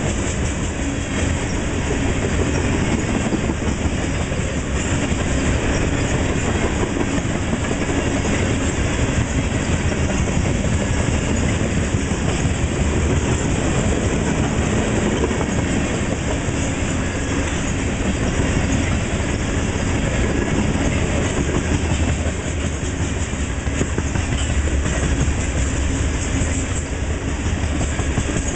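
Covered grain hopper cars of a freight train rolling steadily past: a continuous rumble and clatter of steel wheels on rail.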